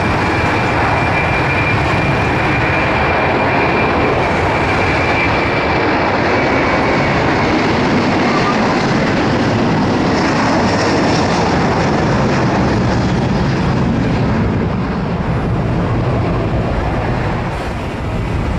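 Airbus A330 jet engines running, heard as a loud steady rush with a thin high whine that fades out about six seconds in.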